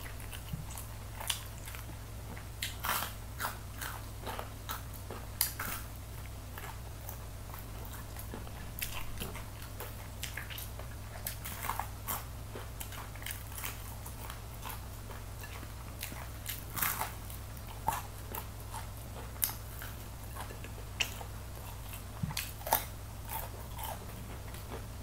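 Close-up eating sounds of crispy breaded chicken wing: irregular sharp crunches of biting and chewing through the crisp coating. A steady low hum runs underneath.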